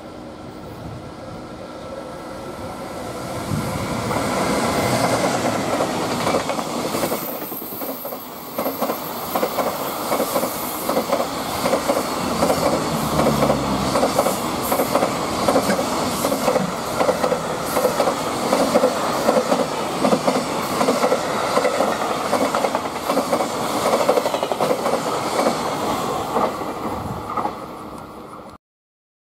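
JR Freight EF210 electric locomotive passing with a container freight train. It rushes louder as the locomotive goes by about four to five seconds in. Then comes a long, rhythmic clickety-clack as the container wagons' wheels cross the rail joints, cut off abruptly near the end.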